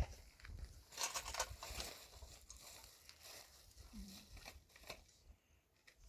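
Faint rustling and crinkling with scattered light clicks, busiest about one to two seconds in.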